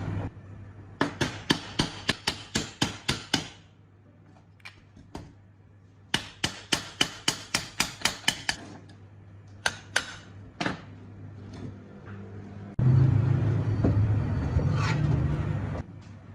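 A hammer tapping on metal in two quick runs of about a dozen blows each, roughly four or five a second, then a few single taps. Near the end a steady low hum runs for about three seconds and cuts off.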